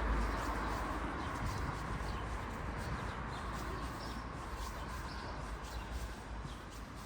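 Street ambience: the noise of a passing vehicle fading away, with faint short bird chirps.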